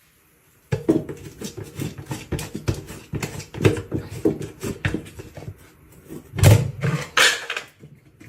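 An animal's rapid, irregular short sounds, starting about a second in and loudest near the end.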